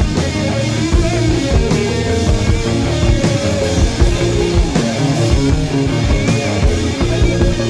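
Heavy metal band playing an instrumental passage: electric guitar, bass guitar and drum kit.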